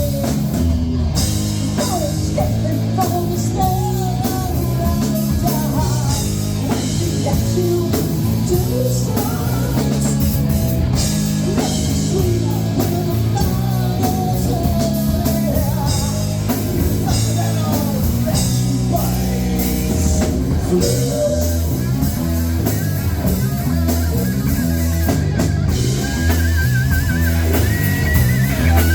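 A rock band playing live: singing over guitar and drum kit, with a steady beat. A high wavering note comes in near the end.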